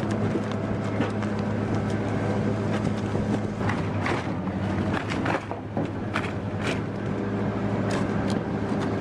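Engine of a large wood chipper running steadily under load, with repeated sharp cracks and snaps of wood being broken up. The cracks are thickest in the middle of the clip.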